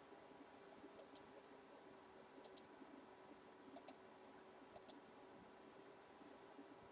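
Faint computer mouse double-clicks, four pairs of quick clicks spaced about a second and a half apart, over a quiet steady hum.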